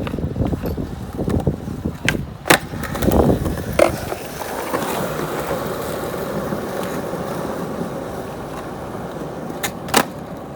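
Skateboard rolling with a steady rumble from its wheels, broken by sharp clacks of the board: a few around two to four seconds in and two more near the end.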